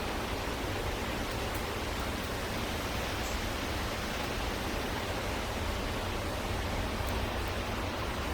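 Steady, even outdoor background hiss with no distinct calls or knocks.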